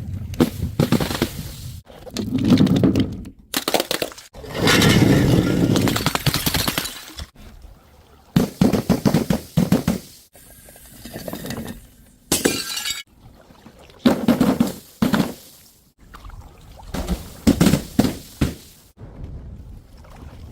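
Glass bottles smashing and shattering, with thuds and crunching, in a run of short separate clips of a second or two each, split by abrupt cuts.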